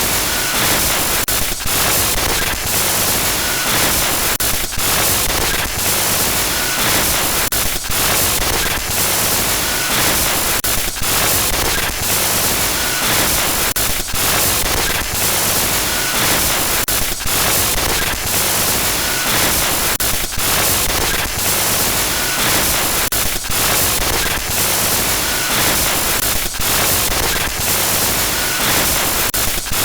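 Loud, steady digital static from a glitch-noise sound effect, a hiss across all pitches broken by short dropouts roughly every second.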